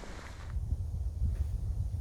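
Wind buffeting the microphone in a low, uneven rumble, with a brief rustle in the first half second.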